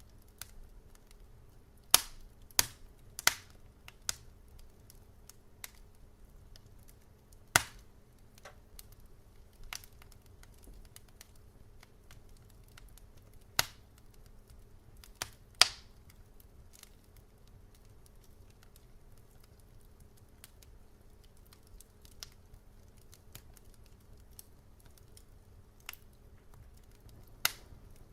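Wood fire crackling: sparse, irregular sharp pops and snaps at uneven intervals, a few of them much louder, over a low steady rumble.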